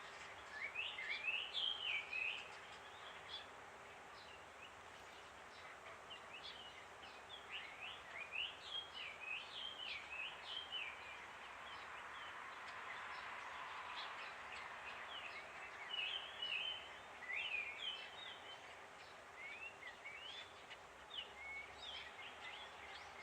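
Small songbirds twittering: clusters of short, quick chirps that come and go throughout, over a steady background hiss of outdoor noise.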